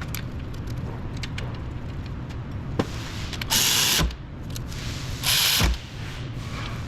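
Two short hissing bursts, each about half a second and about a second and a half apart, over a steady low hum during brake work.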